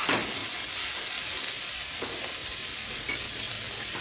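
Green beans, potatoes and onion in dry spice masala sizzling in a hot kadhai while a spatula stirs and scrapes them. This is the dry-frying stage, with no water added. There is a louder scrape right at the start and another about two seconds in.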